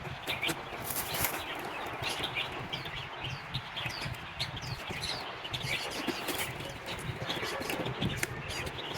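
Small birds chirping repeatedly in short, high calls over a steady background rustle.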